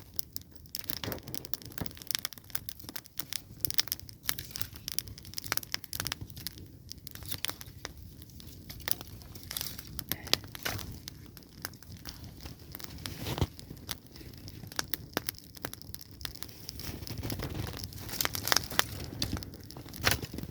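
Small kindling fire of dry willow twigs, dry grass and bark catching and crackling, with a dense run of sharp snaps and pops throughout.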